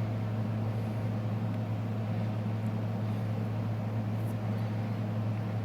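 Heat gun running with a steady low hum.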